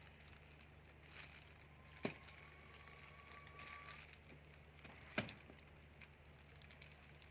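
Two sharp cracks, about three seconds apart, as a knife pries at the hard, spiny husk of a large durian; between them it is near quiet.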